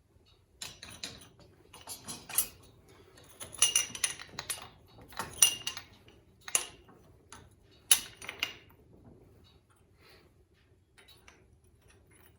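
Metal parts of a dirt bike rear shock clinking and clanking as the new spring and its retainer are fitted back onto the shock body. Scattered sharp metallic clinks, some ringing briefly, come loudest in the middle and thin out near the end.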